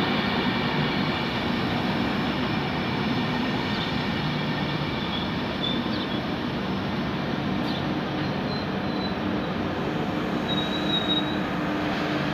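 ÖBB Railjet electric passenger train rolling past close by: a steady rumble of wheels on rail, with brief high-pitched wheel squeals near the middle and again about two-thirds of the way through.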